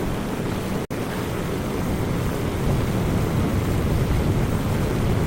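Small boat under way at speed: its engine running steadily beneath a rush of wind and water. The sound cuts out for an instant about a second in.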